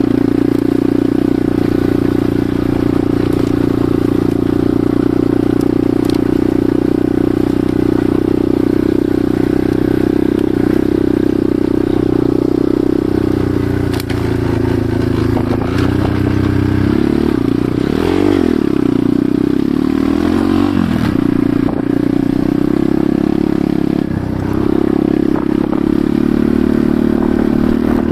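Enduro motorcycle engine running under way at steady revs. Near the middle the pitch falls and rises several times as the revs change, then it settles back to a steady run.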